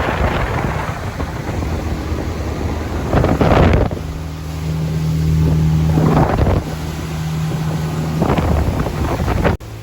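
Boat engine running with wind buffeting the microphone and water noise; a steady low engine hum comes up about halfway through, with three louder rushes of wind or water spray along the way.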